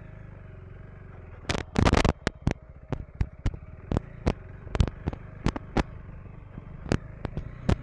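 KTM 390 Enduro R's single-cylinder engine running steadily at low revs. From about a second and a half in, sharp irregular knocks and clatter come two or three times a second and are louder than the engine.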